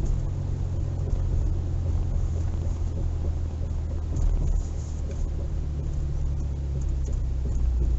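2020 Ford F-150's twin-turbo EcoBoost V6 running at a steady pace, a low drone with road and wind noise and no sharp revving.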